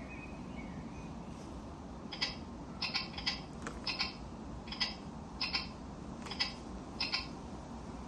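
Niu MQi GT electric scooter's turn-signal sound: a run of short electronic chirps beginning about two seconds in, some coming in quick pairs, over a steady low background hum.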